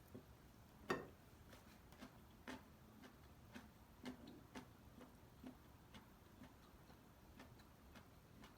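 Faint, irregular light clicks and taps, about one or two a second, the loudest about a second in.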